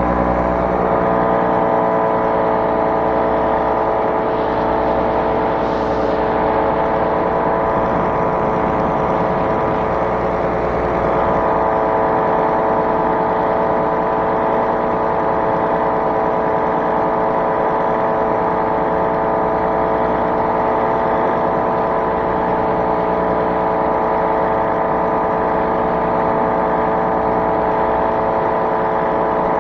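Ultralight aircraft engine running steadily under power, its pitch even and unchanging.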